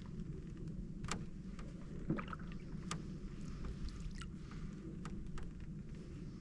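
A canoe being paddled: paddle strokes and drips in the water, with a few sharp clicks and a brief creak, over a steady low rumble. The canoe is described as creaky.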